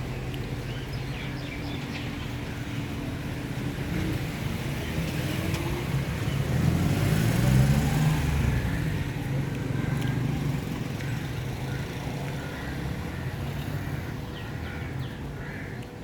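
A motor vehicle's engine running, growing louder with its pitch sliding to a peak about eight seconds in, then fading: a vehicle passing close by.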